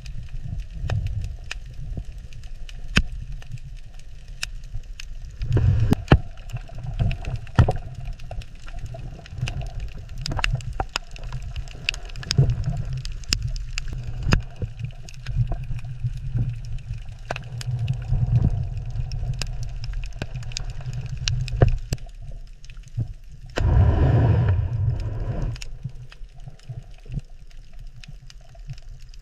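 Underwater ambience: a steady low water rumble with many scattered sharp clicks. Two louder gurgling surges come about six seconds in and again near the end.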